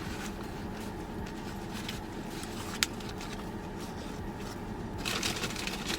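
Steady low hum of an idling car engine and air conditioning, heard from inside the cabin. A single sharp click comes a little before halfway, and a short rustle comes near the end.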